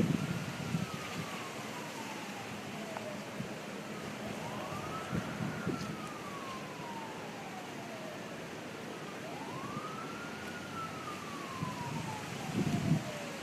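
Emergency siren wailing, each cycle rising quickly and then falling slowly, repeating about every five seconds. Low gusts of wind buffet the microphone at the start and again near the end.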